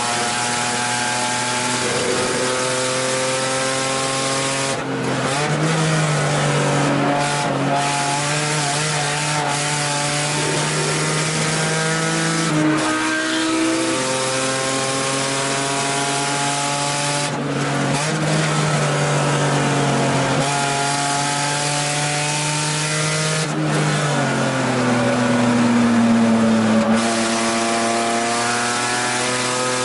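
BMW E30 325i race car's inline-six engine at full throttle, heard from inside the cabin. Its pitch climbs for several seconds, then breaks off and starts climbing again, over and over. About three quarters of the way through, the pitch falls steadily for a few seconds before climbing once more.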